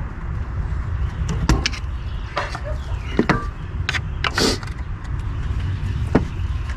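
Scattered sharp knocks and clicks of hands and tools working a tight part loose on a Toyota Prius v engine during a head gasket job, about half a dozen over a steady low rumble.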